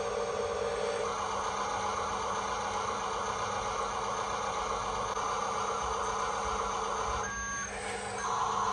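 Toy RC dump truck's small electric motor and gearbox whirring steadily. Near the end, electronic reversing beeps start, two steady tones.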